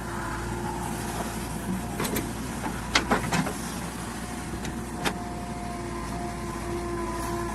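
JCB 3DX backhoe loader's diesel engine running steadily while it works, with a few sharp knocks, the loudest about three seconds in.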